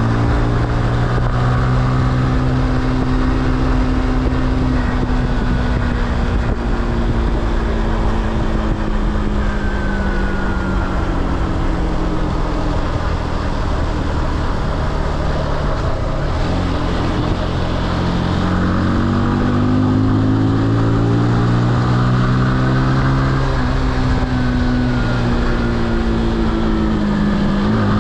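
Motorcycle engine running while riding, its pitch slowly rising and falling with the revs, over a steady rush of wind noise on the microphone.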